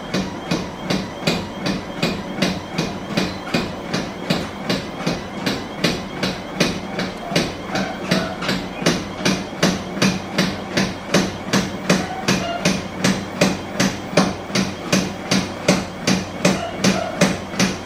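Treadmill running with its motor humming, a person's footfalls thumping on the belt and deck about three times a second at a running pace, during a test of the freshly cleaned, lubricated and tightened belt.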